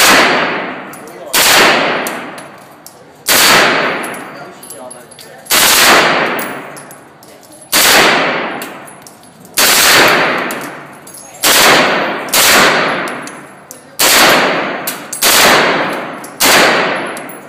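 Gun fired one shot at a time, about eleven shots spaced one to two seconds apart, each loud crack followed by a long echo that dies away before the next.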